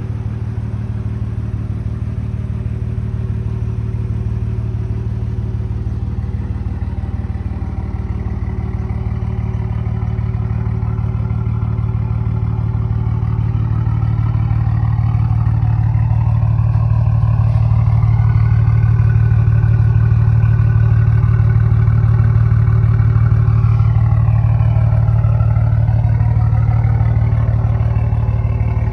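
Straight-piped BMW 740i's B58 turbocharged inline-six exhaust, with no catalytic converters, mufflers or resonators, running with a steady low drone that swells gradually louder through the middle and eases slightly near the end.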